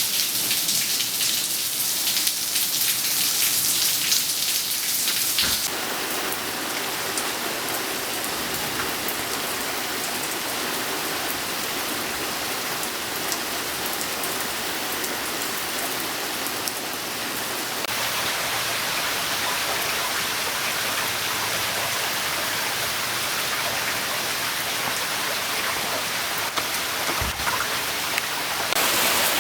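Rain falling steadily and pattering on surfaces. The sound changes abruptly about six seconds in, from a bright, crackly patter to a fuller wash, and shifts again about eighteen seconds in.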